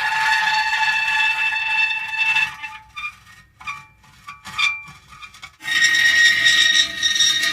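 Metal creaking in drawn-out, high squeals. A long steady squeal gives way about two and a half seconds in to short broken creaks, and another long squeal starts about five and a half seconds in.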